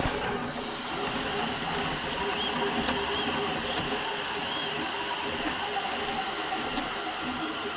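Small electric motors running: a steady hiss with faint, shifting motor tones over it.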